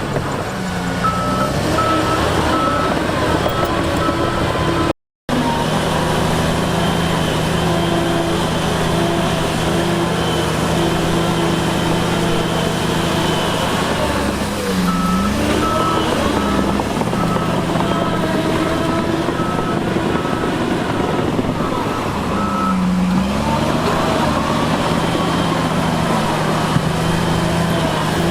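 Heavy earthmoving machinery's diesel engine running under load, its pitch dipping and recovering a few times, with a backup alarm beeping about twice a second in two spells as a machine reverses. The sound cuts out for a moment about five seconds in.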